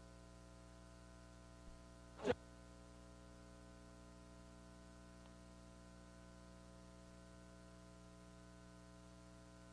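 Near silence: a steady low electrical hum, broken once by a short sharp knock a little over two seconds in.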